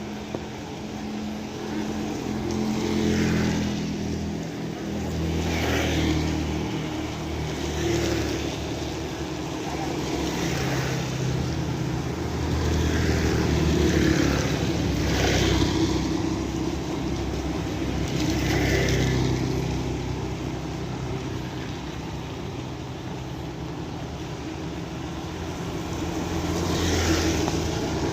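Motor vehicles running and passing, with an engine hum that shifts in pitch and swells of hiss every few seconds, over steady rain.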